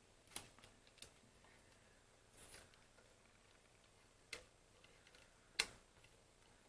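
A few faint, scattered clicks and taps from handling the telephone's parts, with a short scrape about two and a half seconds in; the two sharpest clicks come near the end.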